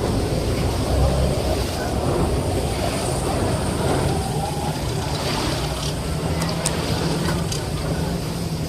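Cross-river ferry boat's engine running with a steady low hum under a broad rushing noise.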